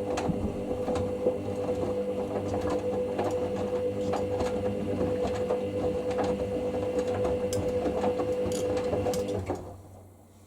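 Hoover SIX Inter@ct washing machine's drum motor turning the drum in the heated 60ºC main wash, a steady whine with the load clicking and knocking in the drum. The motor stops suddenly near the end as the drum pauses between tumbles.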